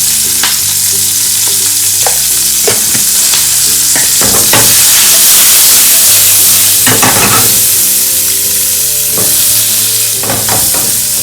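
Onions and capsicum sizzling as they are sautéed on a high flame in hot oil, stirred now and then with short scraping strokes against the pan.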